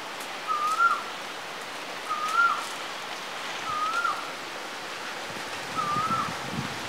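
A bird repeating a short whistled call four times, each a quick rising-then-dipping note, about every one and a half to two seconds, over a steady background hiss.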